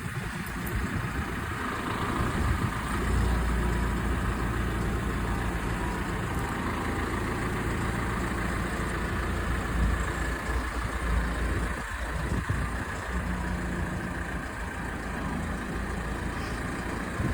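A heavy vehicle engine idling steadily, a low drone that grows a little louder about three seconds in.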